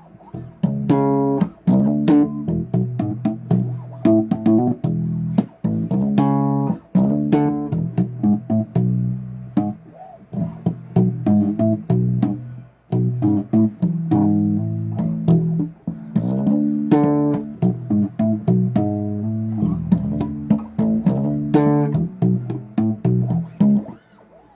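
Electric bass guitar played solo, a busy run of plucked and popped notes in a funky riff.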